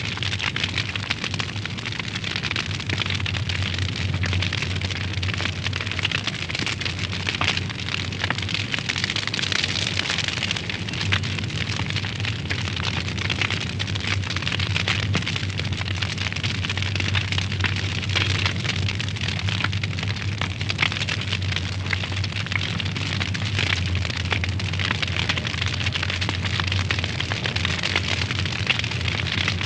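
Wood fire burning in a fireplace, crackling steadily with many small pops and snaps over a continuous hiss.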